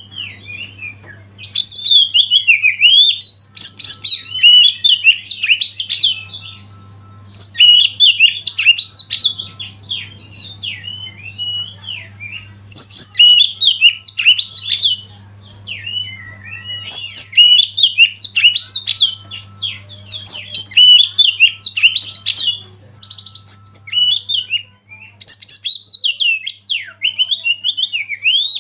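Oriental magpie-robin (kacer) singing: loud, varied phrases of quick whistled and chattering notes, broken by pauses of a second or so, over a faint low steady hum.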